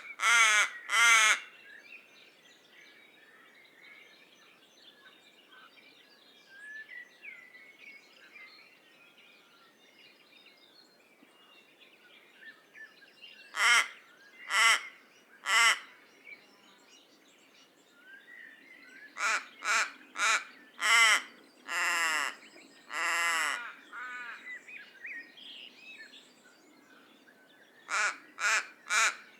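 Common raven calling in groups of short croaking calls: one or two at the start, three about 14 s in, a run of four around 20 s followed by two longer drawn-out calls, and four more near the end. Faint chirps of other birds come between the groups.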